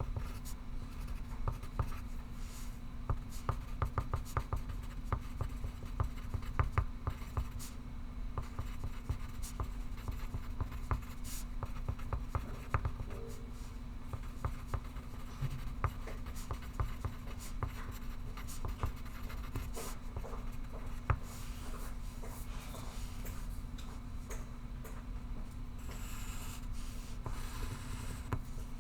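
Pencil writing on paper: many short scratching strokes over a steady low hum, with a brief brushing sound near the end.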